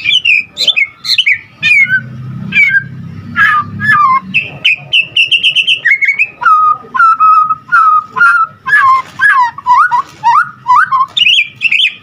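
White-rumped shama singing a long, varied song of clear whistled notes and slurred glides, full of phrases mimicked from other birds: a fast run of high notes a third of the way in, then a series of lower whistled notes, and higher notes again near the end.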